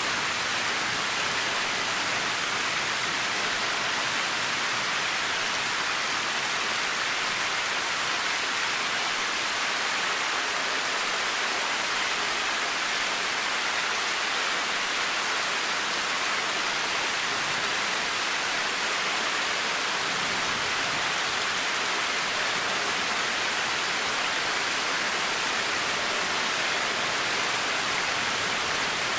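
Steady rain falling, an even hiss at a constant level with no thunder or single drops standing out.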